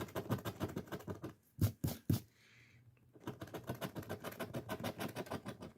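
A scratch-off lottery ticket being scraped in quick rapid strokes, about ten a second. Two louder knocks come near the middle, then a pause of about a second before the scraping resumes.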